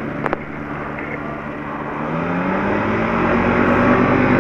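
Light aircraft's piston engine running, its pitch and level rising about two seconds in as the throttle is opened.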